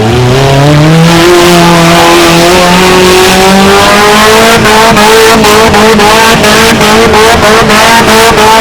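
A mini monster truck's engine revs up over the first second and is held at high revs. From about halfway through it breaks into a rapid, even stutter of about five cuts a second.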